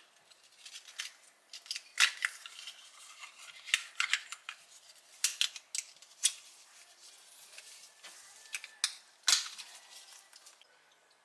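Metal kitchen utensils clicking and scraping irregularly as abalone is cleaned and its guts are separated from the flesh, with the sharpest clicks about two seconds in and near the end.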